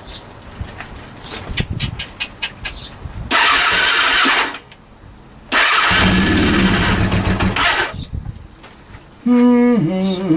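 Honda CB400 engine being cranked on its starter in two loud bursts, about one second and then about two seconds long, without catching and running: the rebuilt engine is failing to start, with the cause not yet known.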